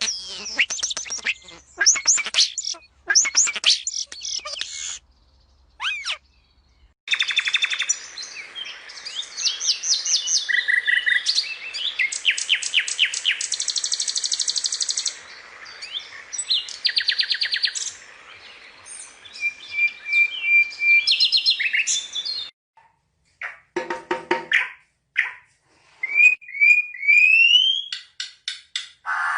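Small birds chirping and singing: quick high chirps, fast rattling trills and clear whistled notes that slide upward. The song breaks off abruptly to silence twice, about five seconds in and again past the twenty-second mark.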